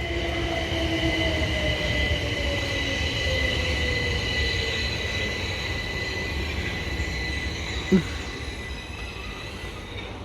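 Class 377 Electrostar electric multiple unit slowing at the platform, its motor whine falling steadily in pitch over the first few seconds over a rumble and a steady high squeal. A short sharp sound comes about eight seconds in, and the train noise then eases off.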